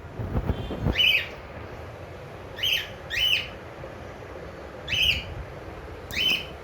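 Cockatiel giving five short, shrill calls, spaced about a second or two apart. A low rumble runs under the first second.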